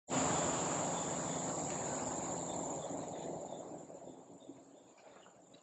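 Insects buzzing in forest, a steady high-pitched continuous drone over an even background hiss, starting abruptly and fading out gradually.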